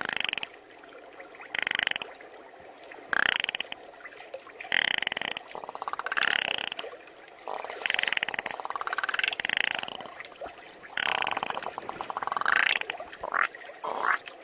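A person imitating a frog with the voice: a series of short, raspy croaks, some gliding upward in pitch, about one every second or so.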